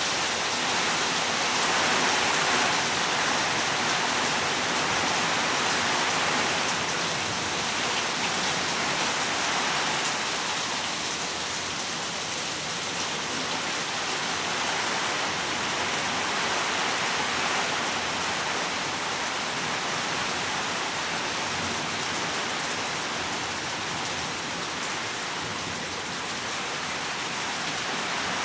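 Heavy rain falling steadily, a dense even hiss with no break; a little louder in the first several seconds, then easing slightly and holding steady.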